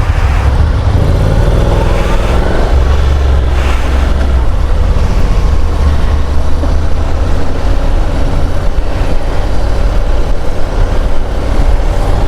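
Honda NC750 DCT parallel-twin motorcycle engine under way, rising in pitch as it accelerates a second or so in, then running steadily, with wind noise over it.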